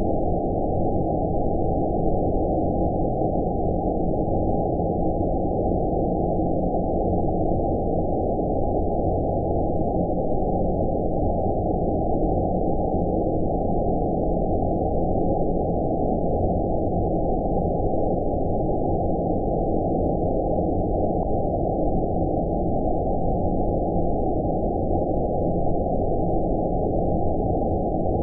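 Steady synthetic 'outer space' sleep noise: a deep, muffled hiss with all the high end filtered away, even in level and unchanging throughout.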